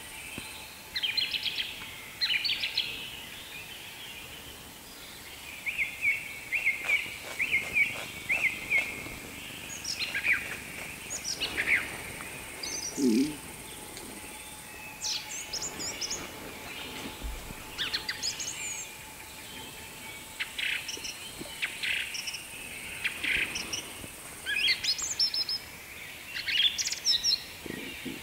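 Small birds calling with short, high chirps and quick sweeping notes, in scattered bursts.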